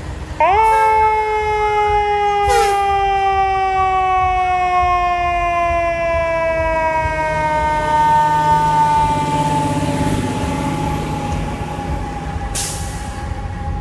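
Fire engine sounding one long warning tone that starts suddenly about half a second in and sinks slowly in pitch throughout, over the truck's engine, with a few short hisses of air.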